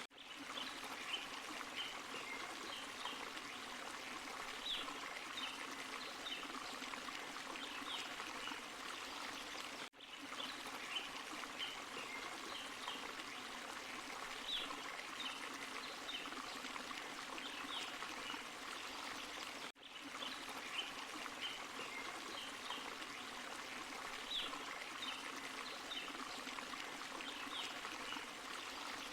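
Small forest waterfall and stream flowing steadily, with bright little plinks and gurgles over the rush of water. The same stretch repeats about every ten seconds, with a momentary dropout at each join.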